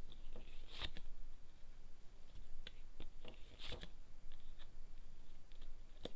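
Fortune-telling cards being handled: a few crisp paper rustles and snaps as a card is drawn from the deck and laid out.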